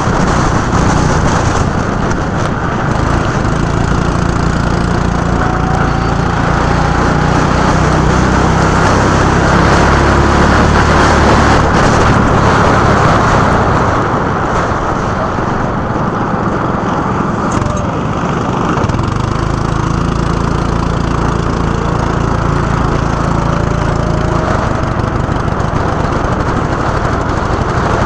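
Go-kart engine running at speed over a broad rush of wind and tyre noise. Its steady note shifts about halfway through and again near the end.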